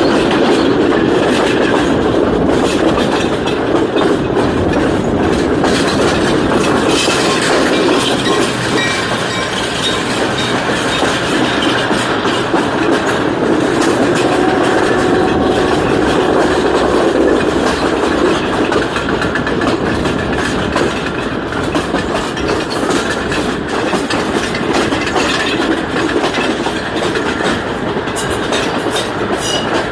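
Passenger train running along the track: a steady rumble of the carriages, with the wheels clicking over rail joints.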